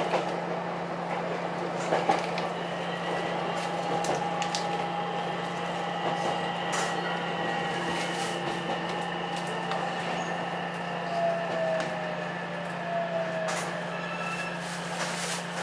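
Cab interior of an Ichibata 7000-series electric railcar running, with a steady low hum and faint electric motor whine that falls slightly in pitch past the middle, consistent with slowing for a station stop. A few sharp clicks or knocks sound over it.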